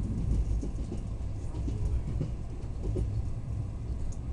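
Passenger train running along the track, heard inside the carriage as a steady low rumble.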